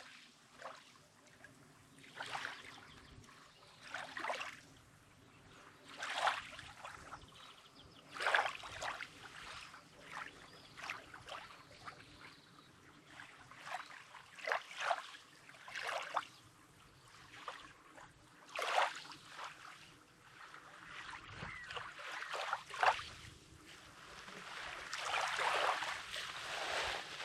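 Small sea waves lapping and washing on a rocky sandy shore, a soft splash every couple of seconds, with a longer, louder wash building near the end.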